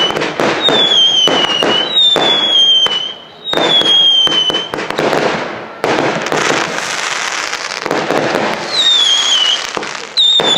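Fireworks going off: a run of whistling fireworks, each a falling whistle about a second long, fired about once a second amid sharp bangs and crackle. This is followed by a denser stretch of crackling, and one more whistle near the end.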